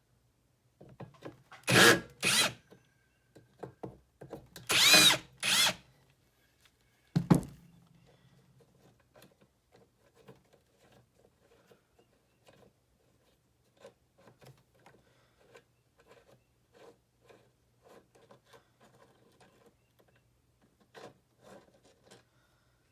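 Short whirring bursts from a power drill or screwdriver, two pairs of them, then a sharp knock about seven seconds in, followed by light clicks and taps of parts being handled.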